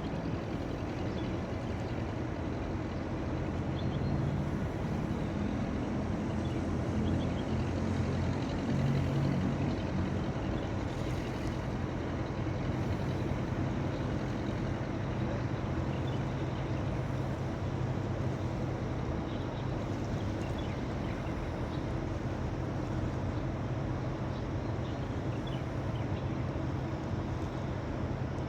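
A steady, low engine drone that runs unchanged, a little louder for a few seconds near the start.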